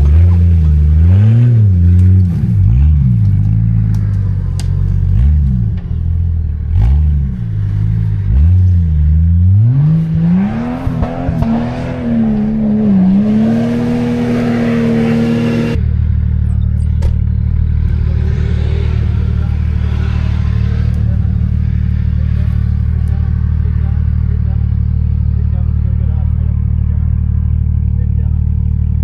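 A 4x4's engine is revved up and down repeatedly while working over rough off-road ground, then climbs to higher revs and holds them for several seconds. About sixteen seconds in the sound cuts suddenly to a steady, low, even engine note.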